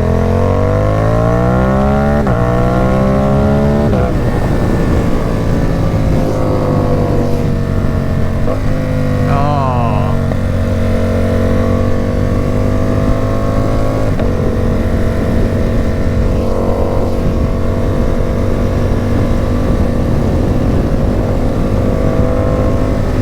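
Ducati Supersport 950 S's L-twin engine, breathing through a Competition Werkes aftermarket exhaust, pulling hard with two quick upshifts in the first four seconds. It then eases off with the revs falling, and settles to a steady cruise.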